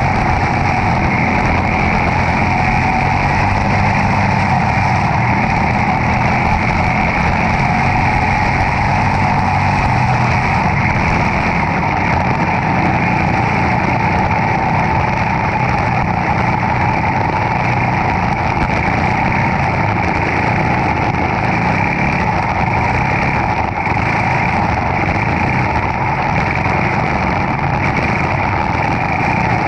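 A racing kart's Briggs & Stratton Animal single-cylinder engine running steadily under race load, heard up close on board the kart.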